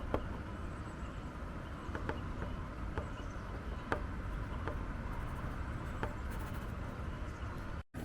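Wind buffeting the microphone as a steady low rumble, with a few faint sharp clicks scattered through it. The sound cuts out completely for a moment near the end.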